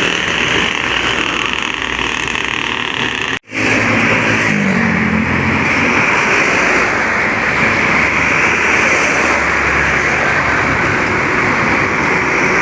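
Road traffic passing close by, heavy truck engines and tyre noise. The sound cuts out abruptly for a moment about three and a half seconds in, then resumes with an engine rising in pitch.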